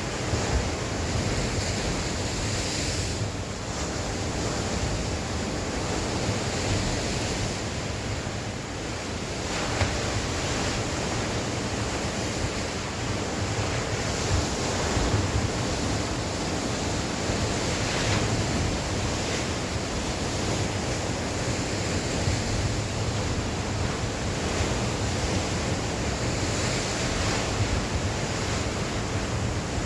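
Sea waves breaking and washing on the shore in a steady wash of surf, with wind gusting over the microphone.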